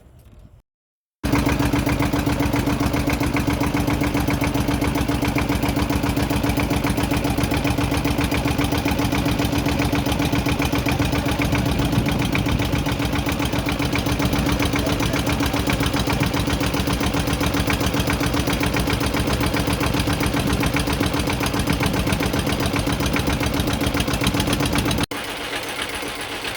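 A small engine running steadily and loudly with a fast, even beat and a strong constant hum. It starts abruptly about a second in and drops much quieter near the end.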